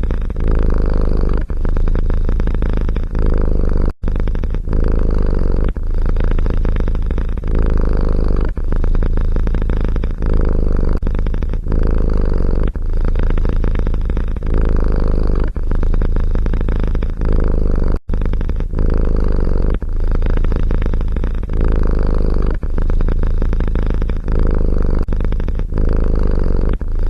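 Domestic cat purring loudly and close up. It is a steady low rumble that eases briefly about every second and a half as the cat switches between breathing in and out. It cuts out abruptly twice.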